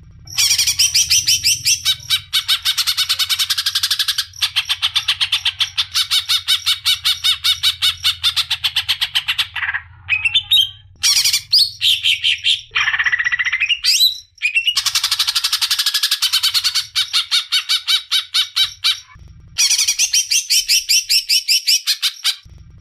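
Green leafbird (cucak ijo) singing in long unbroken runs of rapid repeated high notes, several seconds at a time with short pauses between, and a few varied sliding whistles and harsh notes midway: the continuous 'ngerol' song.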